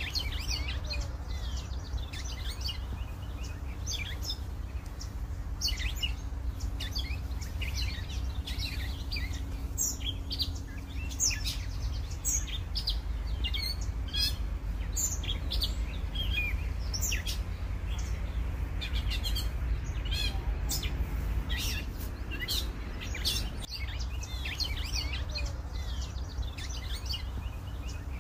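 Songbirds chirping and singing, many short high calls and trills throughout, over a steady low rumble.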